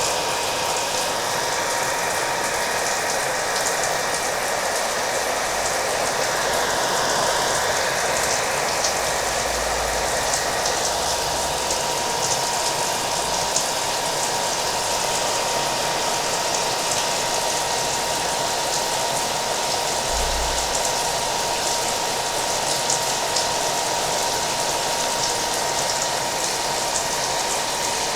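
Hair dryer running steadily with a constant whine, mixed with steady rain.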